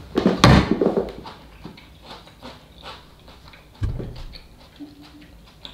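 Close-miked eating sounds of a person eating instant noodle soup with kimchi: chewing and wet mouth noises, loudest about half a second in, with scattered small clicks after. A brief low hum comes near the end.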